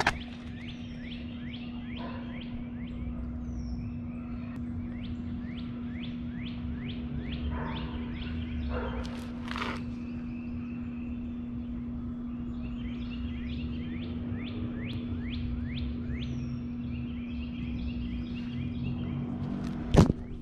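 A bird singing long runs of quick down-slurred notes, about three a second, over a steady low hum. A sharp knock near the end.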